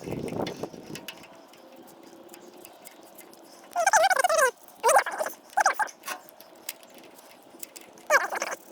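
An animal calling several times: short, warbling, pitched calls that fall in pitch, about four seconds in, twice more soon after, and again near the end.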